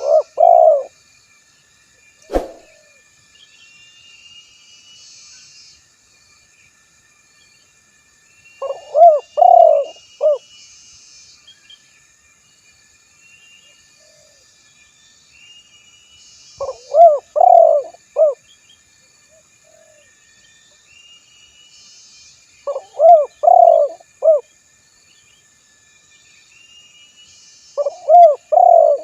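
Spotted dove (tekukur) cooing: loud phrases of three or four low notes, repeated about every six to eight seconds. Faint high chirps of small birds run in between, and a single sharp click sounds about two seconds in.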